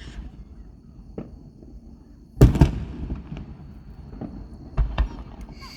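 Fireworks going off: a loud pair of booms about two and a half seconds in, another pair near the end, and smaller pops and cracks between them.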